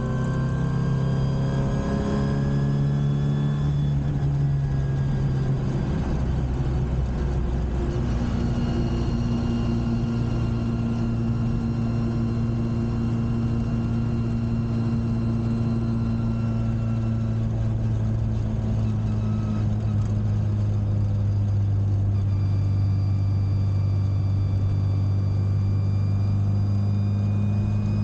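Classic Mini's engine running after a cold start. Its speed shifts during the first several seconds, then holds steady.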